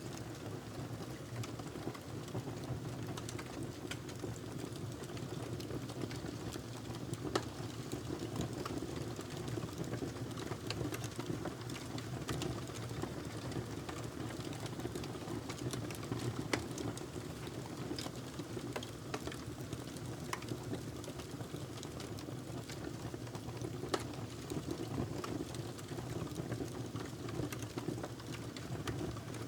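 Wood fire burning in a fireplace: a steady low rush of flame with scattered crackles and pops, a few sharper pops standing out.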